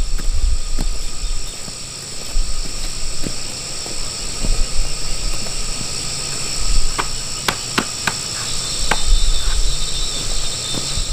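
Insects chirring steadily in a high, even drone, with a short run of sharp taps or knocks a little past the middle.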